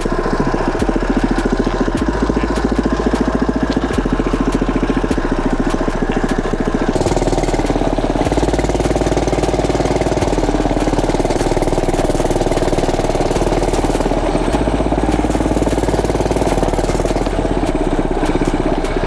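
Small gas mini bike engine running steadily under way, its firing pulses dense and even.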